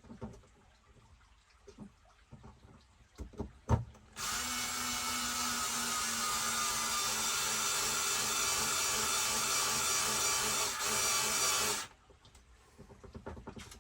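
Electric screwdriver running steadily for about eight seconds, driving in the screws of an RC truck's differential case. A few clicks come just before it starts, and it cuts off suddenly.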